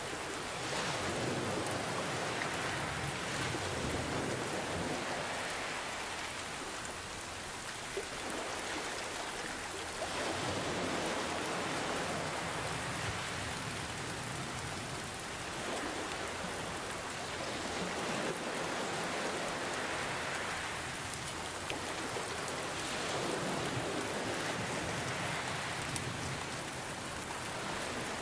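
Steady rain falling, mixed with gentle ocean waves that swell and ebb every several seconds.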